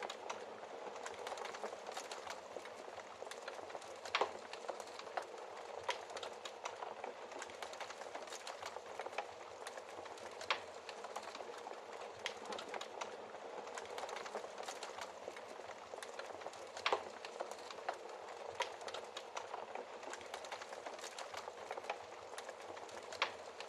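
Wood fire crackling in a fireplace: a steady hiss of small crackles with frequent sharp snaps and a few louder pops.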